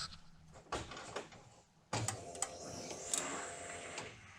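Electric fuel pump priming with the ignition switched on: a steady whir that starts suddenly about two seconds in and stops after about two seconds, bringing up fuel pressure. A couple of short clicks come before it.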